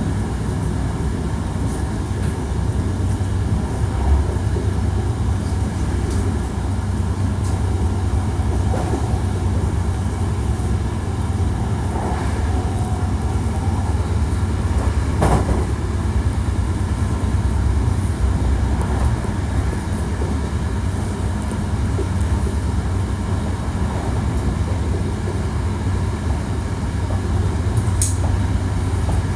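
Hankyu 1300 series electric train running along the track: a steady low rolling rumble with scattered short clicks from the wheels and rails, and one sharp high-pitched squeak near the end.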